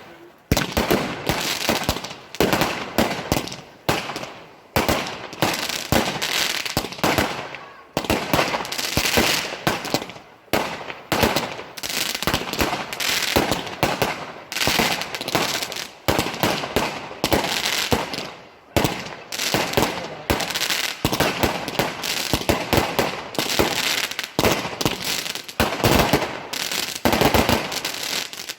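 Celtic Fireworks consumer fireworks going off in a continuous barrage: sharp bangs and crackles following one another several times a second, with a few brief lulls.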